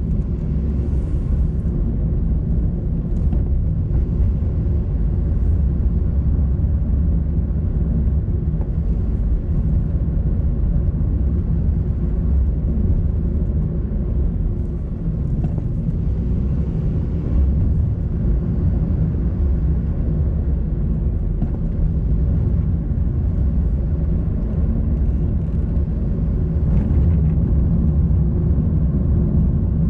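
Car driving along a road: a steady low rumble of engine and tyre noise, dipping briefly about halfway through.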